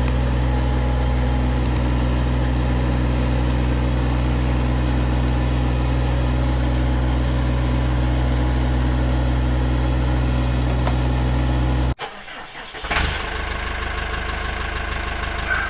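LS MT225S compact tractor's diesel engine running steadily up close, then cutting off abruptly about twelve seconds in.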